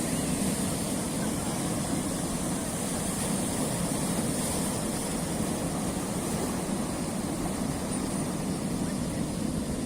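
Sea surf on a rocky shore: a steady, even roar of water with no separate wave crashes standing out.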